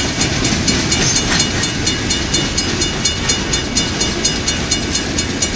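Loaded coal hopper cars of a freight train rolling past, their wheels clicking over the rail in a steady, quick rhythm over a continuous rumble. A few steady high tones run through it, which fits the grade-crossing warning bell ringing.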